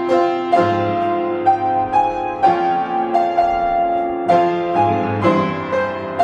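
Solo acoustic piano being played: a slow passage of struck chords and melody notes, each new note or chord sounding roughly every half second and ringing on under the next.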